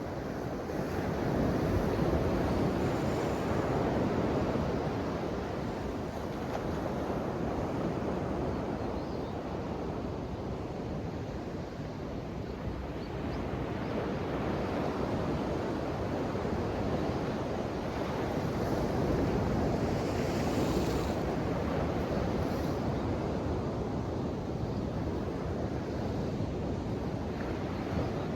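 Ocean waves breaking and washing on the shore, a steady surf with slow swells, louder about two seconds in and again past the middle.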